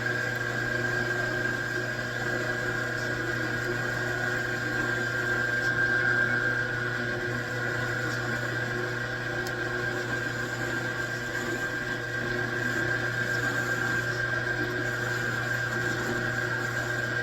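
Metalworking machine tool running steadily: a constant high whine over a low hum.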